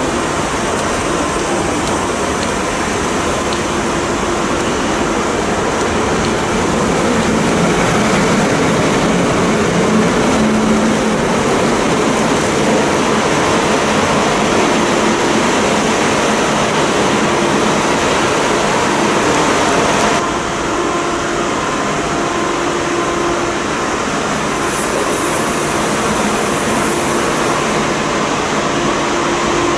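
Electric passenger trains at a large railway station: a steady, loud rumble and hum of trains running. About twenty seconds in it changes abruptly to the noise of riding aboard a train as it pulls along the platform.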